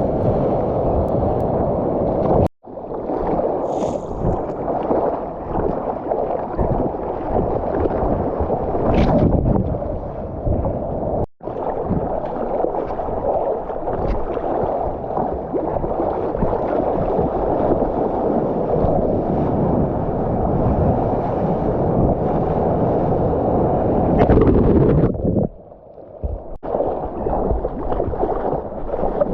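Water rushing and sloshing with wind buffeting, heard muffled through a GoPro's housing while surfing. The noise cuts out abruptly twice and turns quieter for about a second near the end.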